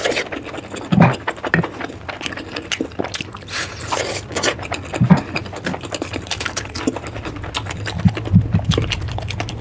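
Close-miked eating: chewing and mouth smacking, with many irregular small clicks and a few stronger knocks.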